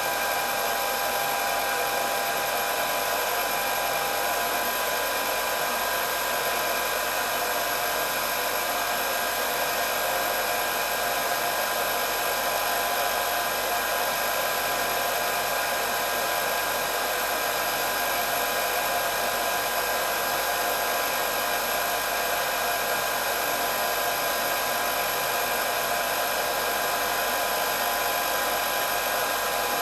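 Hair dryer running continuously: a steady rush of blown air with a constant high motor whine. It holds the same pitch and level throughout.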